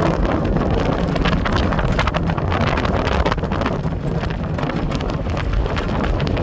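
Four-wheeler (ATV) engine running steadily, with wind buffeting the microphone.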